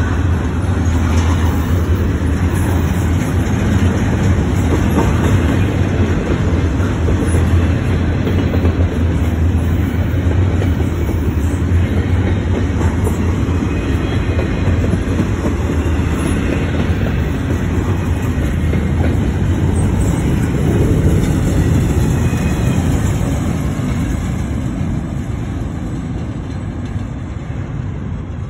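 Double-stack container well cars of a long Norfolk Southern freight train rolling past, a steady heavy rumble of steel wheels on the rails. The sound fades over the last few seconds as the end of the train moves away.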